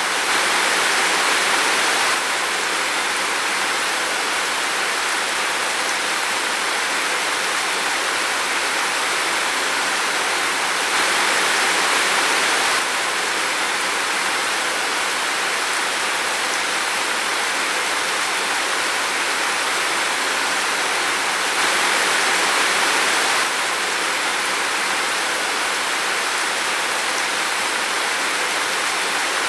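Steady rain falling in a forest, an even rushing hiss. It swells a little three times for a couple of seconds, about every ten seconds.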